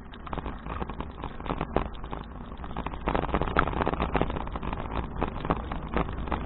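Touring bicycle ridden along a path, recorded on an action camera: a steady low rumble of wind and road noise with many irregular sharp rattles and clicks from the bike jolting over the surface, busier from about three seconds in.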